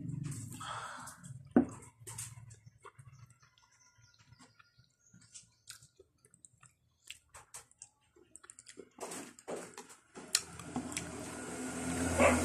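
Close-miked chewing and mouth sounds of someone eating rice and jackfruit salad, with scattered sharp clicks of a metal fork against the plate. The chewing is quieter in the middle and louder again near the end.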